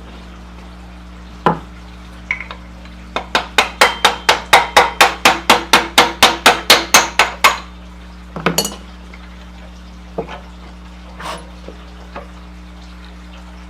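A quick run of sharp metallic clicks or taps from a hand tool on metal, about five a second for some four seconds, with a few single knocks before and after it. A steady low hum runs underneath.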